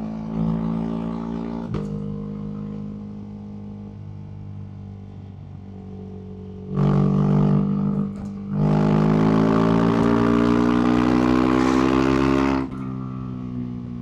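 Ducati SuperSport S's L-twin engine through a Termignoni aftermarket exhaust, running steadily at low throttle. About seven seconds in the throttle opens briefly and loudly, then a longer pull of about four seconds follows with the pitch climbing before the throttle shuts off suddenly.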